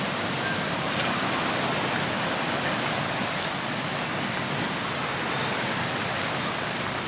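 Heavy rain pouring down, a steady hiss with scattered drop ticks.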